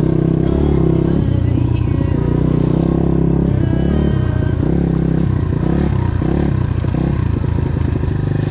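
Highper 150 pit bike's single-cylinder four-stroke engine under way, the throttle opening and closing so the engine note rises and falls again and again.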